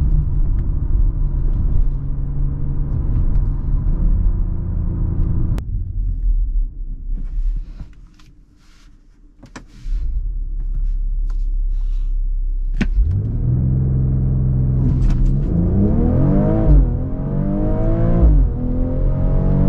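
2022 BMW X3 M40i's turbocharged inline-six running steadily, then dropping away to a quiet stretch with a few light clicks. The engine comes back in, and the SUV accelerates hard, the revs climbing and falling through two quick upshifts near the end.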